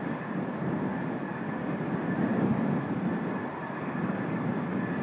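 Strong wind buffeting the microphone as a steady rumble that swells briefly in the middle, over a faint, steady high whine from running jet or ground equipment on the airfield.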